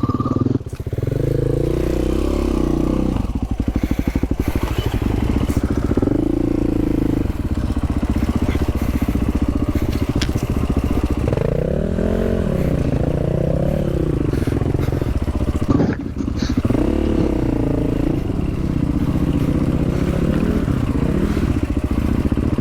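Dual-sport dirt bike engine running on a rough trail, its pitch rising and falling as the throttle is worked, with a brief drop in engine sound at about 16 seconds.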